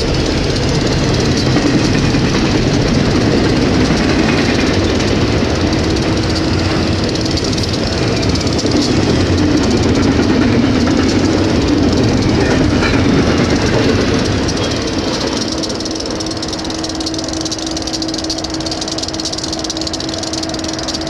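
Union Pacific double-stack intermodal train rolling past at speed: a steady roar of steel wheels on rail with the clatter of the container cars. About fourteen seconds in the last cars go by and the sound eases, leaving the steady hum of the waiting grain train's idling diesel locomotive.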